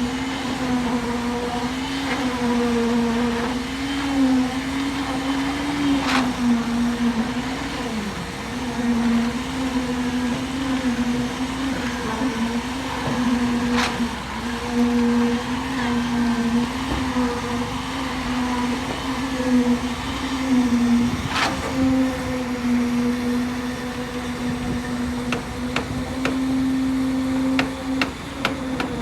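Construction machinery motor running steadily with a loud hum whose pitch wavers slightly, with a few sharp knocks now and then.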